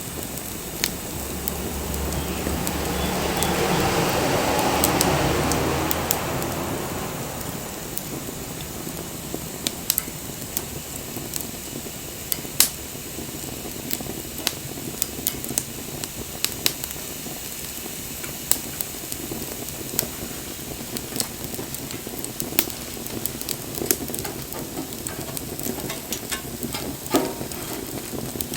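Wood bonfire burning, hissing steadily with irregular sharp crackles and pops throughout. Over the first several seconds a rushing noise with a low hum swells up and fades away beneath it.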